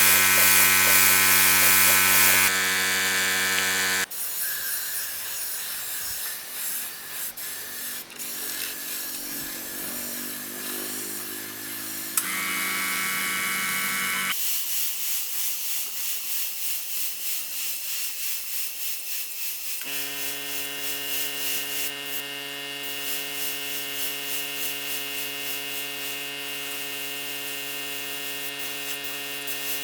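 Small electric motors running steadily with a buzzing hum, the pitch and character changing abruptly several times in a series of short cuts.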